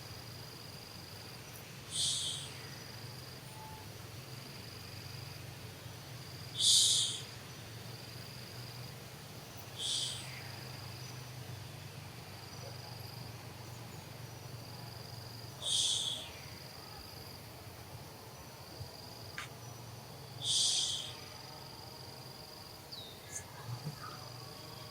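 Insects calling: a steady high chirr that comes and goes, with five short, harsher high buzzes a few seconds apart.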